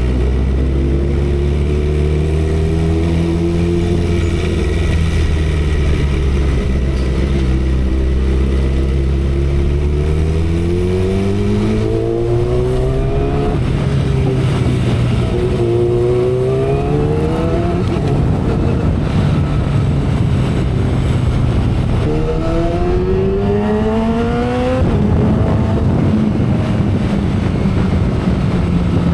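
2012 Kawasaki Ninja ZX-10R's inline-four engine, first holding a steady note, then accelerating through three gears: the pitch climbs and drops back at each upshift, and runs steady and higher near the end. Wind rushes over the microphone throughout.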